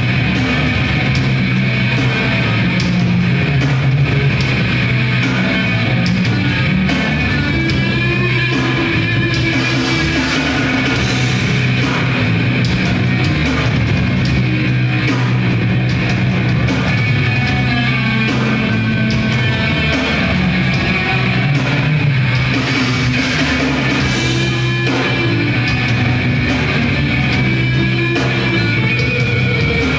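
Grindcore band playing live: loud, heavily distorted electric guitars and bass over fast, dense drumming, continuous throughout.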